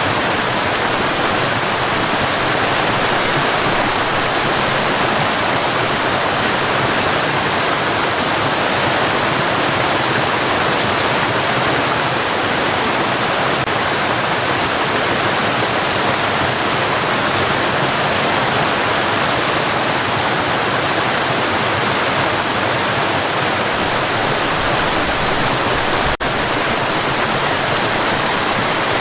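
Steady white noise: an even, unchanging hiss, broken by a momentary dropout near the end.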